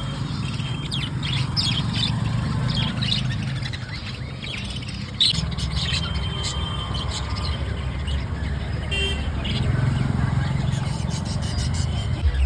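Pet birds giving short, scattered chirps and squeaks over a steady low rumble.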